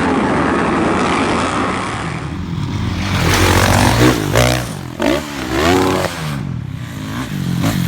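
Motocross dirt bike engine being ridden hard, revving up and dropping back again and again, its pitch rising and falling every second or so.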